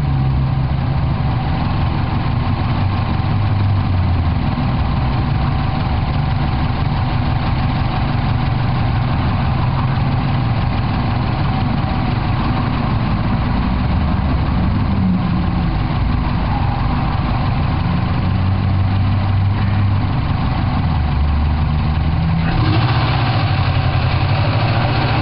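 A 2005 Subaru WRX's turbocharged flat-four engine idling, heard from inside the engine bay, with a steady low pulsing. About three seconds before the end the sound turns brighter and a little louder.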